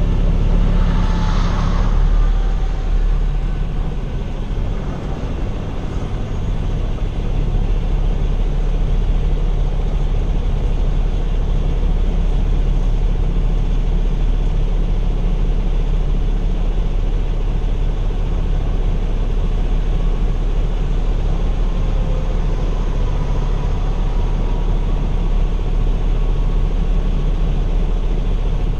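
Steady low rumble of a semi truck's diesel engine and road noise heard from inside the cab while driving, with a brief higher hiss in the first couple of seconds.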